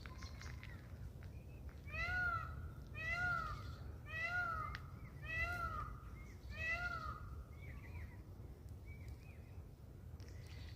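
Indian peafowl calling five times in a row, each a short arched cry that rises and falls in pitch, about a second apart. A few faint small bird chirps follow.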